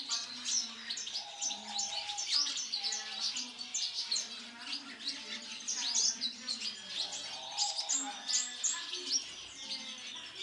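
Caged aviary birds chirping and tweeting: a dense, continuous run of quick high chirps, over lower sustained calls.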